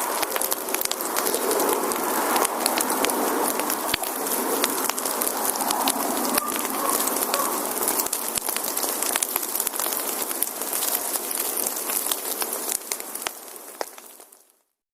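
Burning firewood crackling and popping steadily, with many small sharp snaps over a dense hiss. It fades away near the end.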